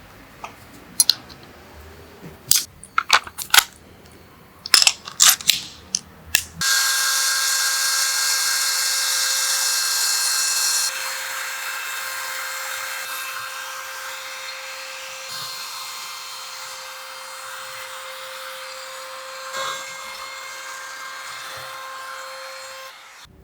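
A few sharp clicks and knocks, then an electric power tool starts and runs with a steady whine. About four seconds later it drops in level, then eases lower until it stops shortly before the end.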